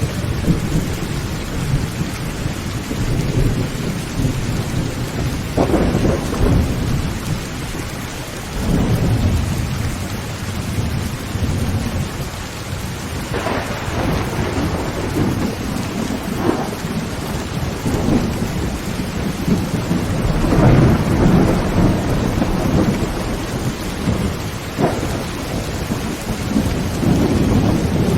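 Heavy rain drumming on a tin tent roof under continuous rolling thunder, with sharper thunder cracks breaking through several times.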